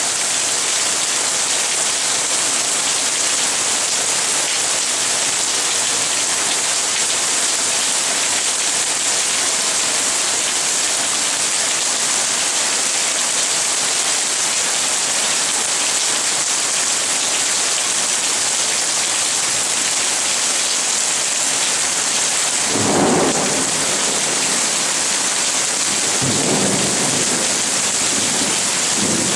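Steady summer rain falling in a continuous hiss, with thunder rumbling twice near the end.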